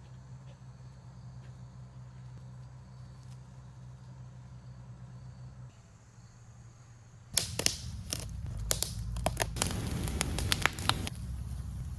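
A low steady hum that drops away about halfway through, then from about seven seconds in a burst of sharp clicks and rustling noise.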